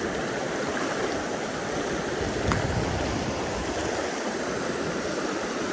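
Steady rush of river water flowing, with one faint click about two and a half seconds in.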